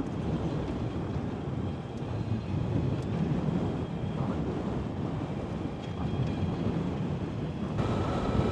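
Wind rushing over the microphone and tyres rumbling over a bumpy gravel road, ridden on an Energica Experia electric motorcycle. Near the end the noise gets louder and a faint steady whine joins in.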